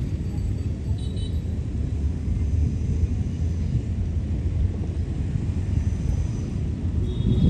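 A steady low rumble, with faint high chirps about a second in and again near the end.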